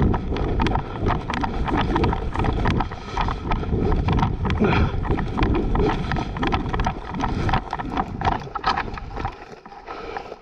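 Footsteps and rustling of clothing and gear as a player moves forward, with many irregular knocks and crunches over a low rumble of wind on a helmet camera's microphone, easing off near the end.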